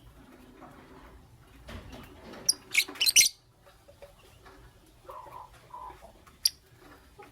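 Lovebirds chirping: a quick cluster of sharp, high-pitched chirps about two and a half to three seconds in, then a single short chirp near the end.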